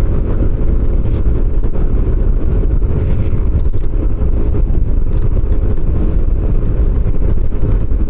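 Motorcycle engine running steadily at low speed while the bike rides over a loose gravel stretch of country road, with faint scattered ticks above the engine.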